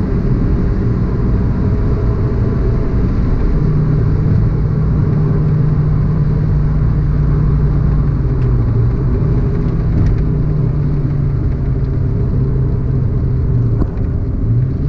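Hyundai Getz 1.3's four-cylinder petrol engine running while the car drives, with road and tyre rumble, heard from inside the cabin. The engine drone sinks slowly in pitch, dips briefly near the end, then picks up again.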